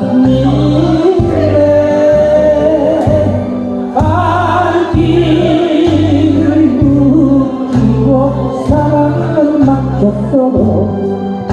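A singer singing a melody over an instrumental accompaniment with a steady, evenly repeating bass line.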